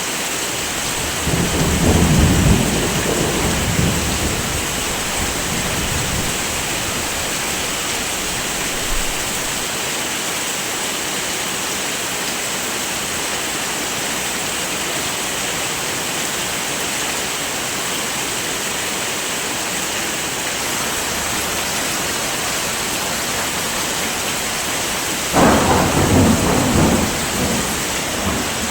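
Heavy rain falling steadily, with two low rolls of thunder: one beginning a second or two in and one near the end.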